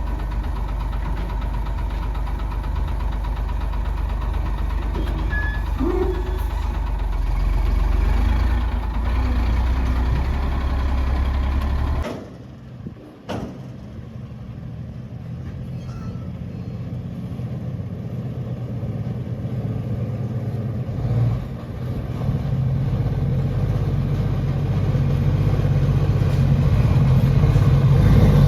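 Heavy diesel engine of earthmoving machinery running steadily. The sound cuts out abruptly for about a second and a half a little under halfway through, then returns and grows louder toward the end.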